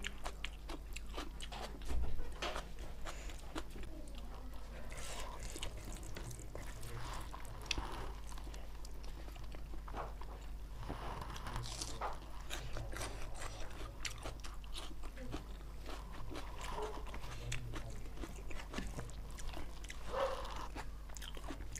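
Close-miked eating sounds: chewing with many small wet mouth clicks and smacks while eating chicken and rice by hand, over a low steady hum, with a louder thump about two seconds in.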